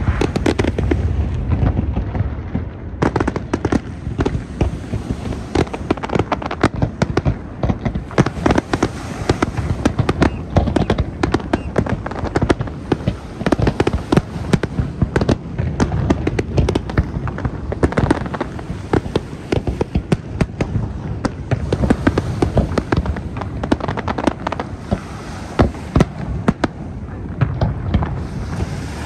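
Fireworks display: a dense, continuous barrage of bangs and crackling bursts, several a second, over a low rumble of booms.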